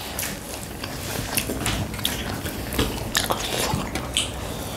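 Close-up eating sounds of people eating rice and curry with their hands: chewing and many quick, small wet clicks and smacks.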